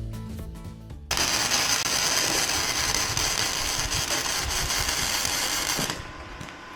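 A power tool runs loud and steady for about five seconds, starting and cutting off abruptly, after background music ends. A quieter steady hum is left at the end.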